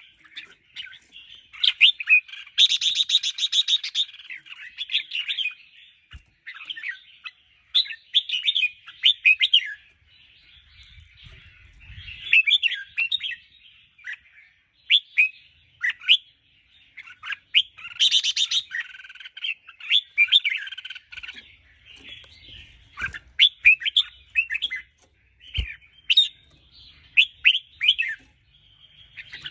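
Red-whiskered bulbul singing: short, quick warbled phrases repeated one after another, broken twice by a louder harsh buzzy note.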